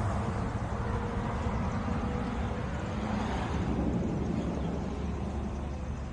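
A vehicle running with a steady low rumble that slowly fades.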